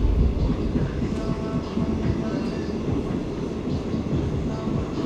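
Commuter train running along the track, heard from inside the carriage: a steady low rumble of wheels on rails.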